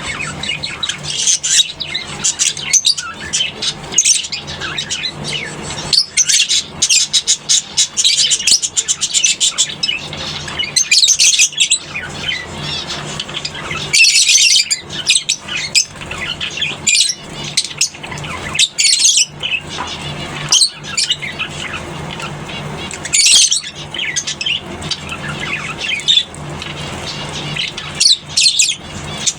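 A colony of lovebirds chattering, with rapid, overlapping high-pitched chirps and squawks throughout. A steady low hum runs underneath.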